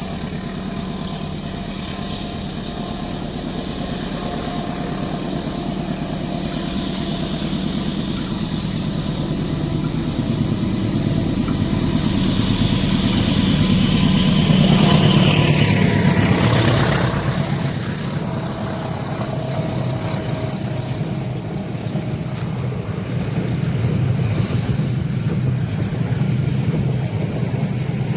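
A motor vehicle's engine runs steadily and grows louder, then passes at about the middle, its pitch dropping as it goes by. Engine noise carries on more quietly afterwards.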